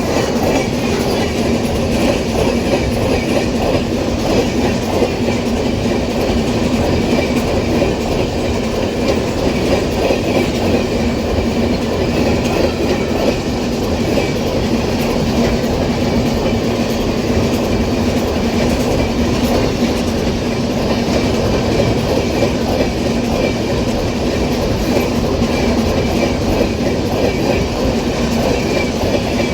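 Empty iron-ore freight wagons rolling past steadily, their wheels clacking over the rail joints under a continuous rumble and a steady hum.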